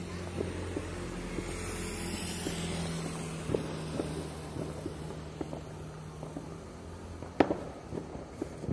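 Scattered firecracker and firework bangs, the loudest a single sharp crack about seven seconds in, over a steady low engine hum that stops about two thirds of the way through.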